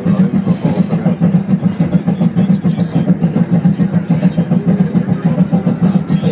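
Miniature park train running, heard from aboard: a steady, low engine drone that holds throughout.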